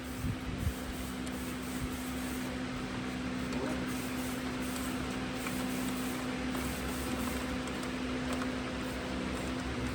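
A steady hiss over a constant mechanical hum, unchanging throughout.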